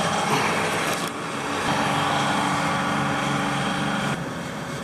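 An engine running steadily, its sound shifting abruptly a few times.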